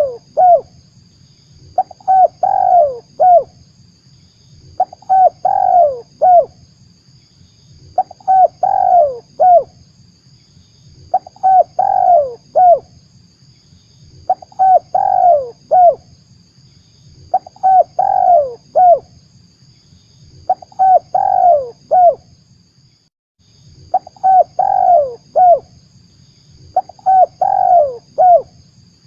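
Spotted dove (tekukur) cooing, a recorded lure call: one phrase of several falling coos repeated about every three seconds, ten times, over a faint steady high hum.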